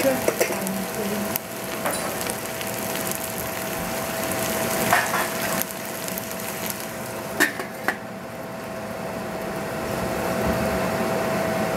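Vegetables sizzling and frying in a stainless steel pot on a gas stove, with a few metal clinks. About two-thirds of the way through, a metal lid is set on the pot with two clinks, and the sizzle turns duller under the lid.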